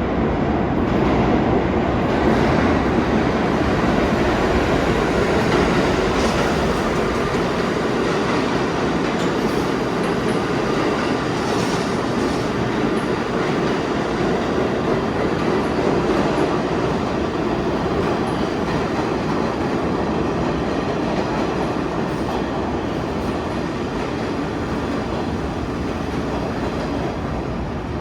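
New York City Subway train running on the track: a steady, loud rumble of wheels on rail that holds level throughout.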